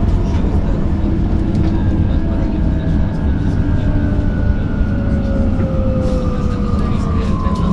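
Electric bus cabin: heavy low road rumble with the electric traction drive's whine gliding slowly down in pitch as the bus slows.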